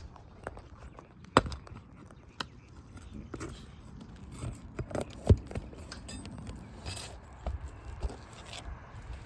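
A tool scraping and knocking on roof shingles as a roofer works to pry out a nail driven below the shingle surface, with scattered clicks and two sharp knocks, about a second and a half in and about five seconds in.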